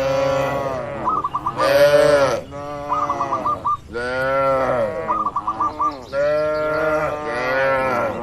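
Cattle mooing over and over, several long calls overlapping one another, with a short four-note bird call repeating about every two seconds.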